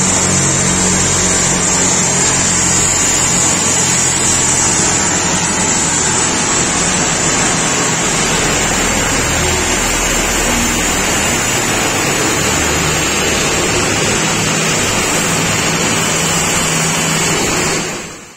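Seat Ibiza's turbocharged 2.0 TDI four-cylinder diesel running hard on a chassis dynamometer: a loud, steady mix of engine and tyres on the rollers, which fades out near the end.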